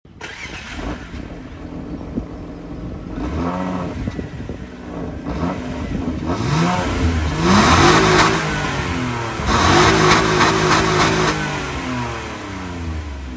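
Nissan Maxima's 3.0-litre V6 engine heard at the exhaust tailpipe, revved up from idle three times, the pitch climbing and falling back with each blip. The second and third revs are the longest and loudest.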